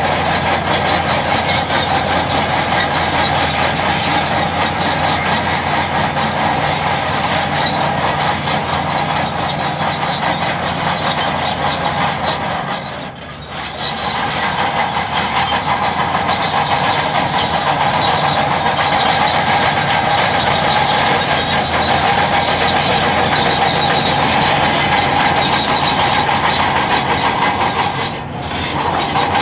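Heavy earthmoving machinery, most likely a bulldozer, running steadily under load, with two brief dips where the sound cuts.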